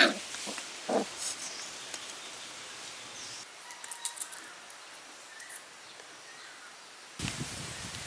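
Animal calls over outdoor background noise: a loud short cry at the start and a shorter one about a second later, then a few faint chirps.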